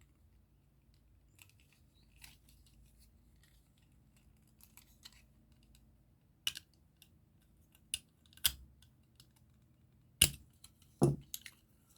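Small hard plastic model parts being handled and worked free: a few sharp clicks and snaps, spaced irregularly, the loudest near the end.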